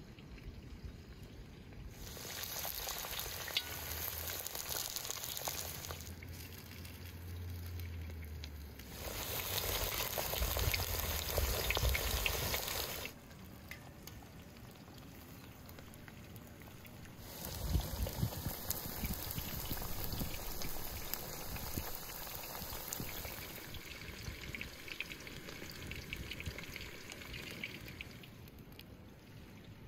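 Potato slices and vegetables frying in hot oil in a wide wok-shaped pan over a wood fire, a steady sizzling that is louder in two long stretches with a quieter spell in between.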